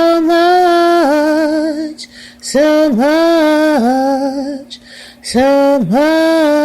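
A woman singing slow, drawn-out held notes in three phrases about two and a half seconds apart, each sliding up into the note and wavering with vibrato at its end.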